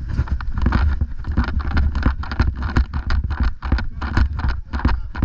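A rapid, irregular series of sharp clicks and knocks, about four or five a second, over a steady low rumble.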